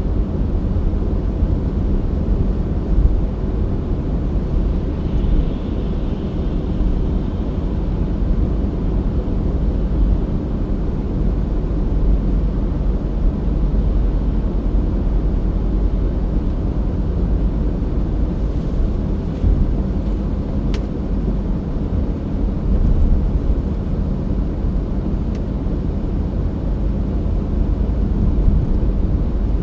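Car driving at road speed: a steady low rumble of tyres and engine.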